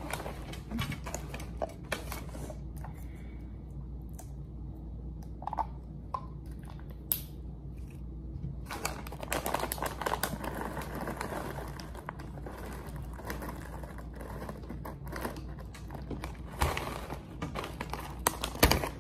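Handling noises of getting into a breakfast bowl: light clicks and taps of a spoon and container with bits of packaging crinkling, busier in the second half, over a steady low hum.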